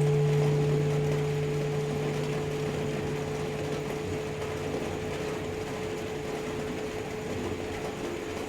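Tibetan singing bowl ringing out, its low hum and a higher overtone slowly fading, over a steady hiss of rain.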